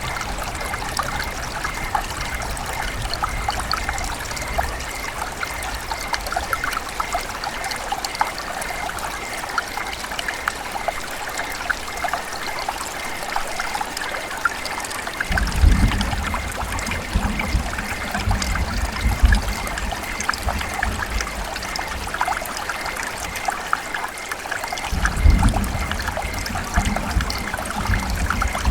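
River water running and trickling, a steady rush dotted with small splashes. Twice, about halfway and again near the end, a low rumble rises under it for a few seconds.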